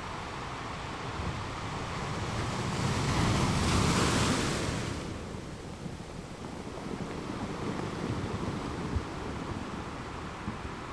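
Ocean waves washing onto a shore: one wave swells and breaks with a rising hiss, loudest about four seconds in, then recedes into a steady surf wash.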